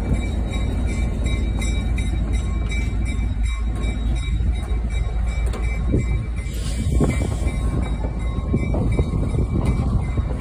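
Skunk Train railroad car rumbling and rattling as it rolls, with irregular clanks and knocks over a steady low rumble.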